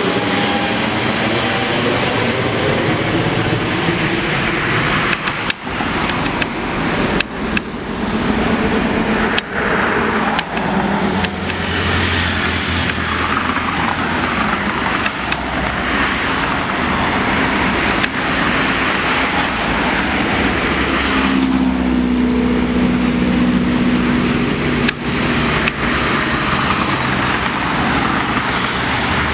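Jet airliner taking off: loud, steady engine noise, with pitches that slide downward near the start as it passes, and a few sharp clicks along the way.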